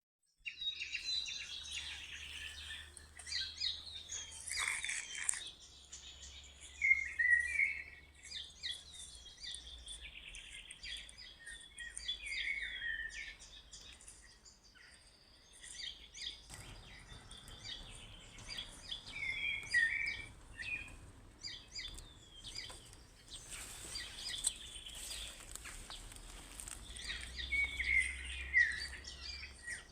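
Several birds chirping and singing, with one short song phrase coming back every six seconds or so, over a faint steady background rumble.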